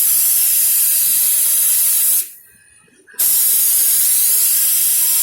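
Compressed-air spray gun spraying coating onto a car bumper: a loud, steady hiss that cuts off about two seconds in as the trigger is released, then starts again a second later.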